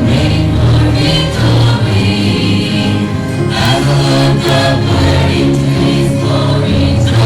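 Congregational hymn singing: many voices singing together over a steady instrumental accompaniment.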